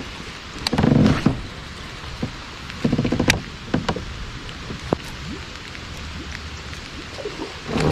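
Rain pattering steadily, with scattered sharp clicks and knocks and two louder bursts of noise, about a second in and about three seconds in.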